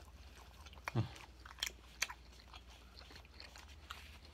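Close-up chewing and biting of a spicy fried chicken sandwich: moist mouth clicks and small crunches, a few sharper ones about one and two seconds in.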